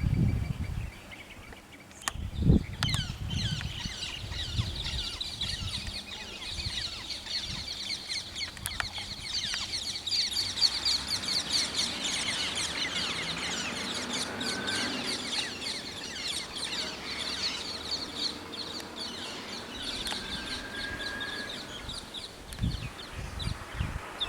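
A dense chorus of rapid, high chirping from wild birds, with a few short whistled notes and a dull thump about two and a half seconds in.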